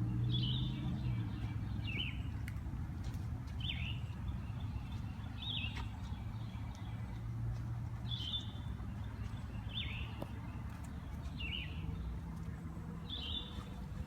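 A bird repeating a short, falling chirp about every one and a half to two seconds, over a steady low rumble.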